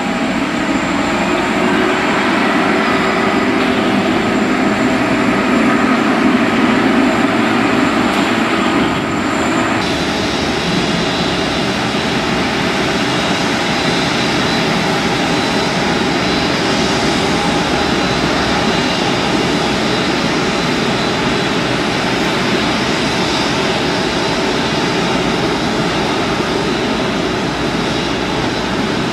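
Jet airliner engines running with a steady rushing noise and a thin high whine. About ten seconds in, the sound changes abruptly: one whine stops and a lower one takes over.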